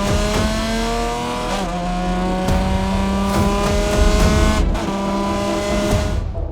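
Car engine accelerating hard, its pitch climbing steadily, with a shift about one and a half seconds in and a brief break near the five-second mark before it climbs again.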